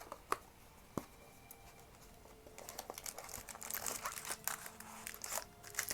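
Foil booster-pack wrappers crinkling and clicking as the packs are handled in their box: a couple of sharp clicks first, then a busy crackle from about two and a half seconds in.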